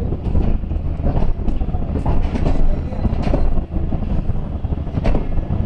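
Passenger train rolling past on the station track, its wheels clacking over the rail joints over a steady low rumble.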